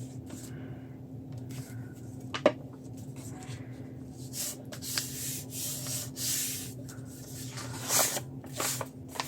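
Paper rubbing and rustling as a craft envelope's flap is glued and pressed closed by hand, with a series of swishing rubs in the second half. A single sharp click about two and a half seconds in.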